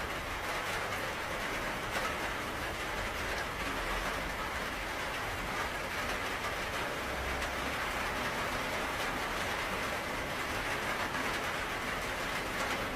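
Steady rain falling, an even hiss with a low rumble beneath.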